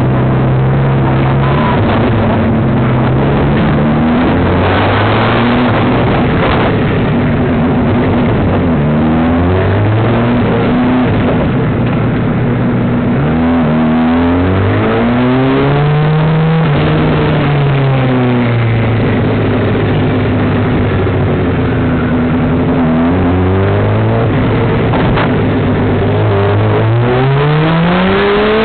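2007 Honda CBR600RR's inline-four engine at racing revs, climbing in pitch and dropping back with each gear change, over steady wind rush. Around the middle the revs swell and fall away as it slows, and near the end they climb hard again.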